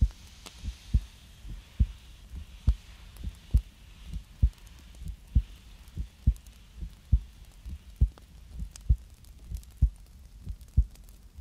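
Steady heartbeat sound of low, soft thumps in lub-dub pairs, about 67 beats a minute, with a faint swishing of hand movements over it that fades near the end.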